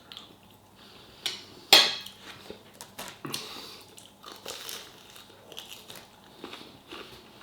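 Eating sounds at the table: quiet chewing and crunching with small clinks of cutlery on a plate, the sharpest click a little under two seconds in.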